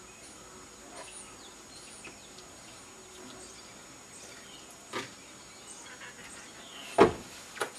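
Small birds chirping in the background, with a sharp knock about five seconds in and a louder thump about seven seconds in, followed closely by a lighter one.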